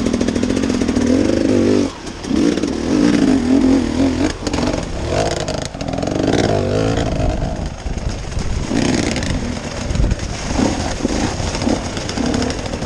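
Off-road vehicle engine revving up and down under load while crawling over an obstacle, with a few knocks along the way.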